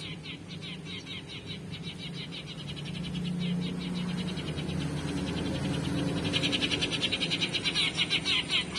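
Eurasian tree sparrow chirping played from an MP3 lure recording: a rapid, unbroken chatter of short chirps that gets louder from about six seconds in.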